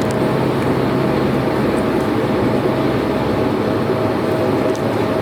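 Cruise boat's engine running steadily under a constant rushing noise, with a faint steady hum; a low part of the hum fades about three and a half seconds in.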